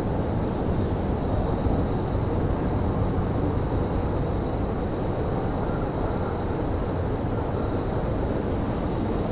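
Steady low rumble of railyard ambience in winter, with a faint constant high whine.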